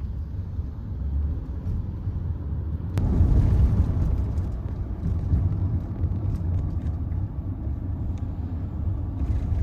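Low, steady rumble that grows louder about three seconds in.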